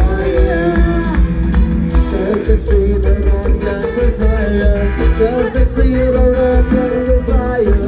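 Loud amplified music from a Thai sound-truck band: a pounding bass beat under a sliding melody line, with singing.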